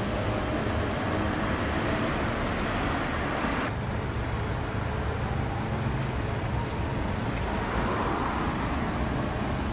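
Steady street traffic noise of passing road vehicles. A little under four seconds in, the higher hiss drops away abruptly, and a brief high thin tone sounds just before.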